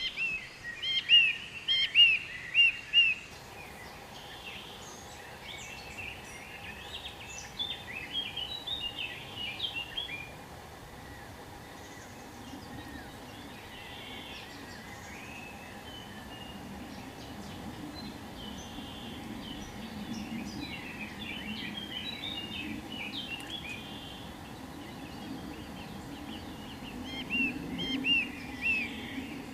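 Birds chirping in short bouts of quick notes, loudest in the first few seconds and again near the end, over steady outdoor background noise.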